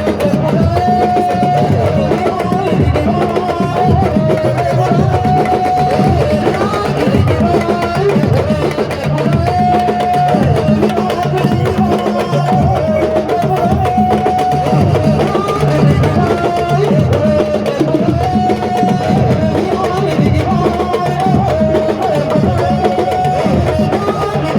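Music of hand drums playing a dense, driving rhythm, with a held, wavering melody line above them.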